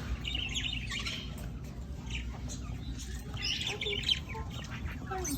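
Several birds calling in short chattering bursts, once near the start and again about three and a half seconds in.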